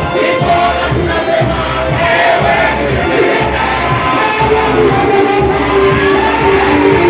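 Church worship music: a band playing while many voices sing together, steady and loud.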